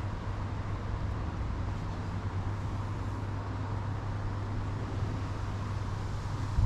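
Steady outdoor background noise with a constant low hum, of the kind made by distant traffic or machinery.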